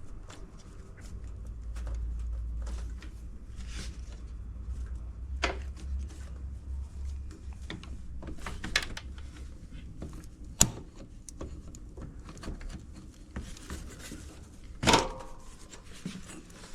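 Small clicks, rustles and knocks of hands unplugging plastic wiring connectors inside a washing machine, with a low rumble of handling in the first few seconds, a sharp click about two-thirds through and a louder knock near the end.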